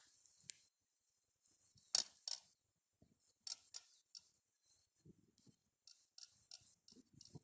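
Wood campfire crackling, with irregular sharp pops and snaps; the loudest pop comes about two seconds in.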